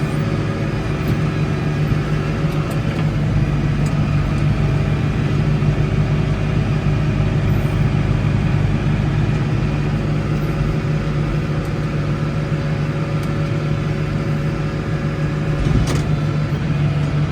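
Case 115U tractor's engine running at a steady speed while plowing snow, with one short click about 16 seconds in.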